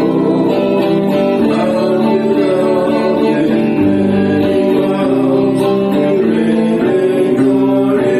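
Worship song played on acoustic guitar, with singing carrying long held notes over it.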